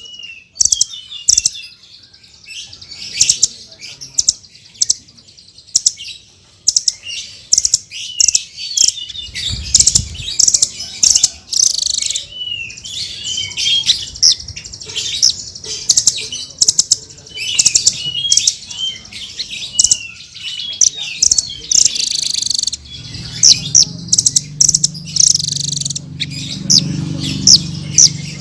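Blue-crowned hanging parrot (serindit) calling: rapid runs of sharp, very high-pitched chirps mixed with short twittering notes, coming in quick bursts.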